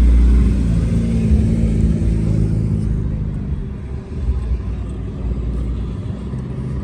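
Car engine rumbling deep and low, loudest at the start and fading over the next few seconds.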